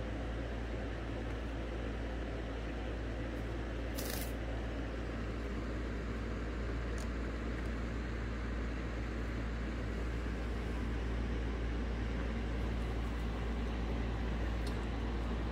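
Steady low hum and hiss of background noise, with one short high-pitched sound about four seconds in and a few faint ticks.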